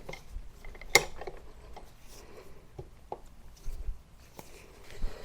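Metal tire-changing hand tools clicking against the motorcycle wheel rim while the tire bead is levered off: one sharp metallic click about a second in, then a few lighter taps.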